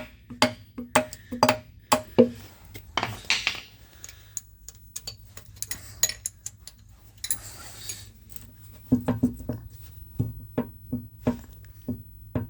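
Hammer tapping on the steel adjusting wedge of a metal shaper's slide block: a run of sharp metallic taps about two a second, a pause filled with scraping and small clinks, then another run of taps near the end. The wedge was over-adjusted and is jammed too tight to drive back with taps alone.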